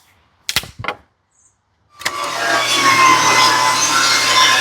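Two sharp wooden knocks, then about two seconds in a table saw starts and runs loud and steady with a low motor hum.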